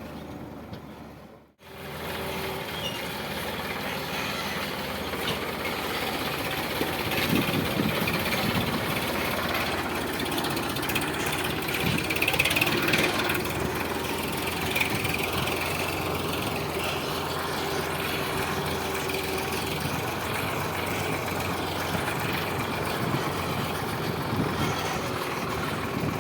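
Sonalika DI 745 tractor's diesel engine running steadily. The sound drops out briefly about a second and a half in, then comes back.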